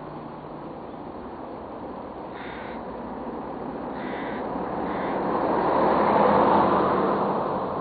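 A bird gives three short calls, each well under a second, over a steady outdoor background. A rushing noise swells to its loudest about six seconds in, then fades.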